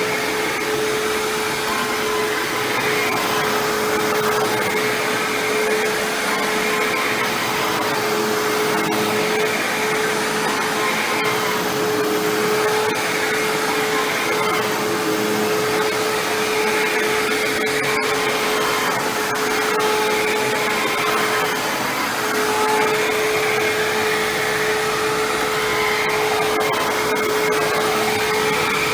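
Hoover WindTunnel self-propelled bagless upright vacuum running steadily: an even rush of air with a steady whine.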